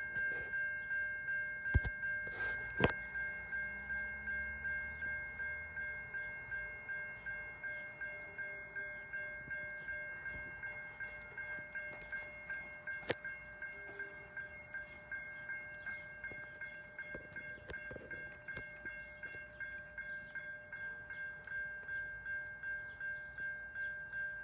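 Railroad grade-crossing warning bell ringing steadily at about two strikes a second, the signal that a train is approaching the crossing. It stops abruptly at the very end. A few sharp clicks sound early on and about halfway through.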